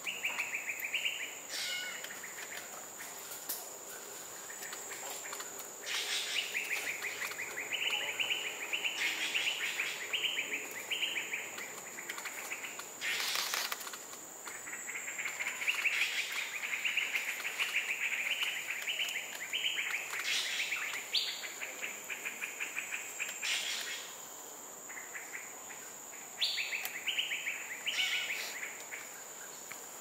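Forest bird calls: rapid trills in runs of a few seconds, each run climbing in steps, over a steady high whine.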